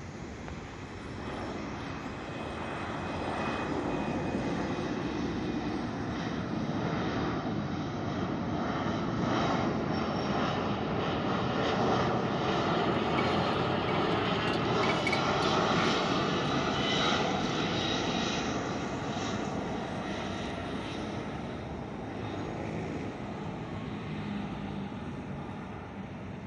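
Jet engines of a landing Boeing 737-400 freighter, its CFM56 turbofans swelling to a peak as it passes about halfway through, then fading away.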